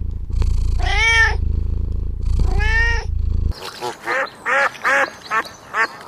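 A domestic cat meowing twice, drawn-out calls over a steady low rumble, then, after a sudden switch about halfway through, a duck quacking in a quick series of short calls.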